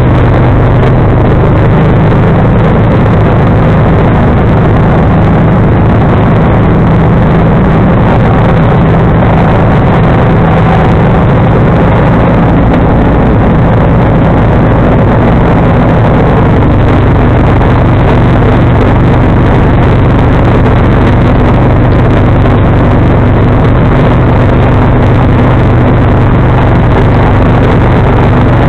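John Deere 445 garden tractor running steadily while snowblowing with its 47-inch snowblower; the engine note shifts a little about halfway through.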